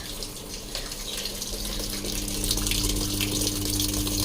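Water pouring into the tub of a Samsung top-load washing machine as it fills, a sign that the repaired machine now takes in water. A steady low hum comes in about a second and a half in.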